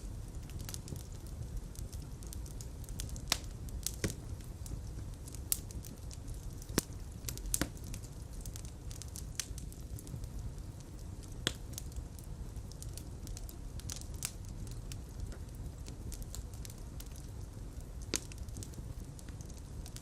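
Fire burning in a fireplace: a steady low rumble of flames with sharp, irregular crackles and pops every second or two.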